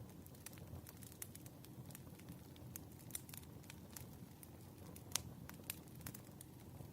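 Wood fire burning: scattered sharp crackles and pops over a low, steady rumble of the flames, with the loudest pop about five seconds in.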